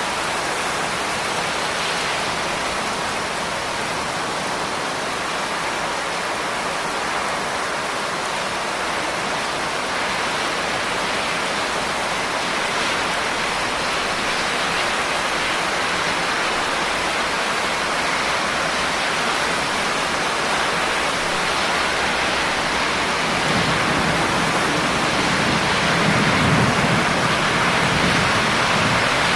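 Steady, dense rainfall hiss. A low rumble builds in over the last several seconds.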